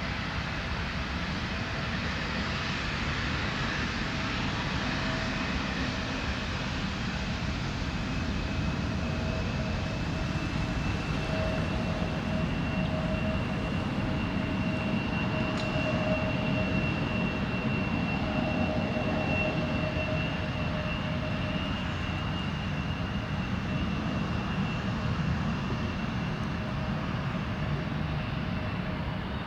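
Jet airliner's engines running: a steady rush with two high whining tones, swelling slightly in loudness midway.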